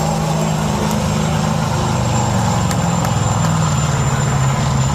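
Diesel engine of a Peterbilt pulling truck, believed to be a V8 Caterpillar, running loud and steady with a deep pitch that sags slightly, a thin high whistle running over it.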